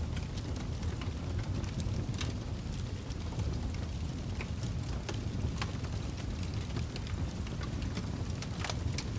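Wood fire burning in a fireplace: a steady low roar of flames with frequent sharp crackles and pops, a few louder pops scattered through.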